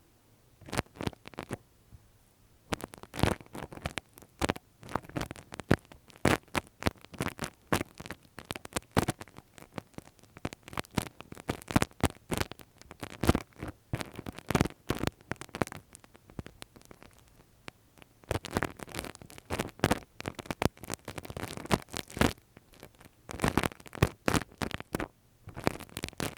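Ear-cleaning ASMR sounds close to the microphone: a tool scratching and scraping at a microphone's ear, in clusters of crackly clicks and scratches with short pauses between them.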